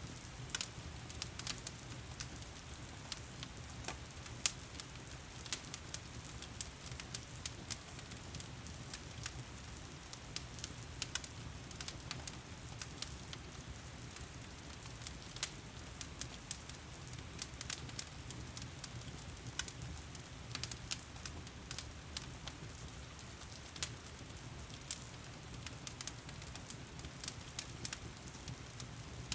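Wood fire crackling in a fireplace, with frequent irregular sharp pops, over a steady hiss of heavy rain and a low steady rumble underneath.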